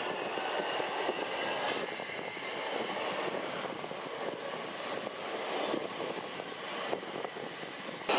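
Thameslink electric train running: a steady rushing noise with a faint whine.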